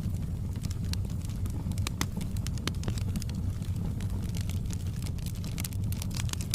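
Fireplace fire burning with a steady low rumble and irregular sharp crackles and pops, several a second.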